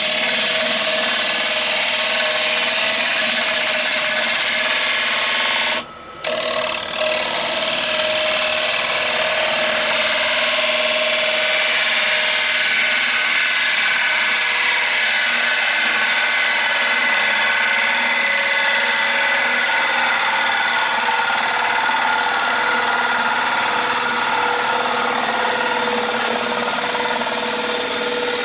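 Wood lathe running steadily with a rowan bowl turning on it, a continuous machine hum with a steady hiss over it. The sound dips briefly about six seconds in.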